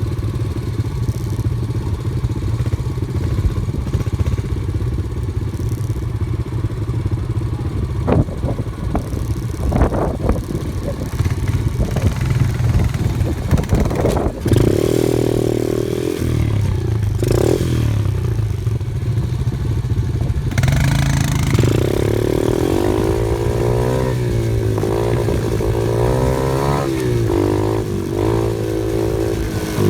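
Off-road vehicle engine running with some clattering knocks, then rising and falling in pitch again and again in the second half as it is revved over rough ground.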